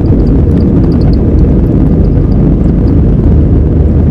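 Airbus A320 jet engines at takeoff power, a loud steady deep rumble, with faint scattered ticks and rattles over it.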